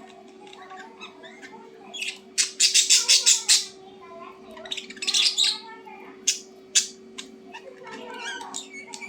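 A bird squawking: a quick run of about eight harsh squawks a little over two seconds in, another harsh call around five seconds, then two sharp clicks, with softer chattering between.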